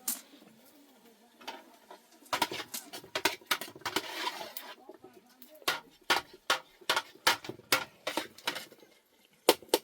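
A run of sharp knocks and clatters from hand work with cooking things. About halfway through they settle into a fairly even rhythm of two to three strikes a second, with a brief rustle a few seconds in.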